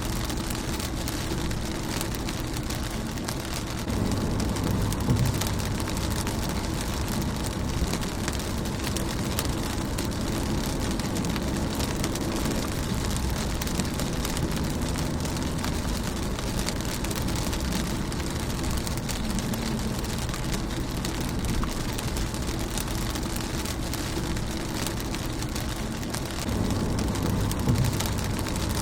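Steady rain pattering on a car's windshield, heard from inside the car as a dense hiss of many small drop impacts. A low rumble under the rain grows louder about four seconds in and again near the end.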